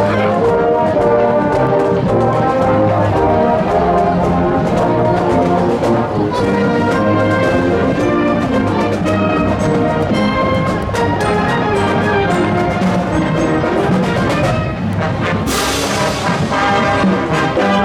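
Marching wind band playing, with brass instruments carrying the tune over a steady low part. About three-quarters of the way through, a bright crash rings out and fades.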